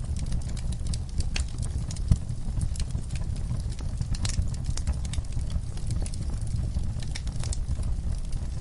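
Fireplace fire crackling and popping: irregular sharp pops and snaps of burning wood over a steady low rumble of the flames, with one louder pop about two seconds in.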